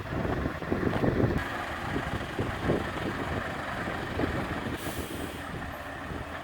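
Scania 580 S truck's 16-litre V8 diesel running, a steady rumble with irregular knocks and a short hiss about five seconds in.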